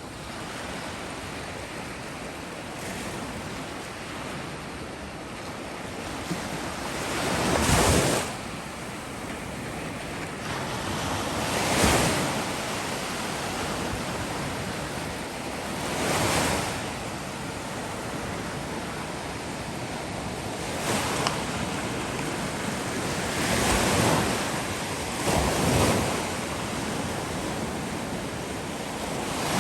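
Black Sea waves breaking on the shore: a steady wash of surf that swells into a louder crash every few seconds.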